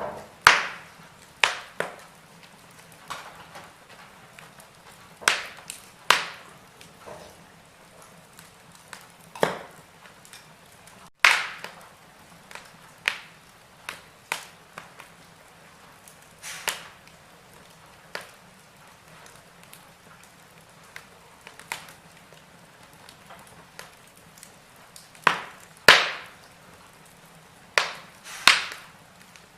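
Wood burning in a fireplace, crackling: irregular sharp pops and snaps every second or two, a few of them loud, over a soft steady hiss.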